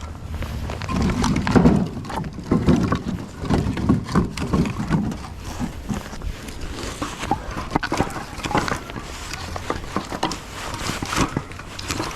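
Pieces of split firewood knocking and clattering as they are handled and stacked, many irregular wooden knocks, heavier in the first few seconds, over a low steady hum.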